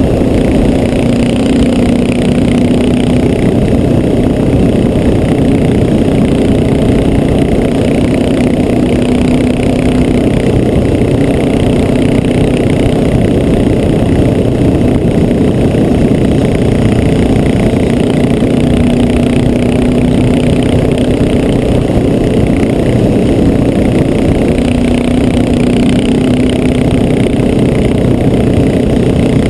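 Honda XR650L's air-cooled single-cylinder four-stroke engine running steadily at cruising speed, its note shifting a little in pitch now and then, under heavy wind noise on the GoPro microphone.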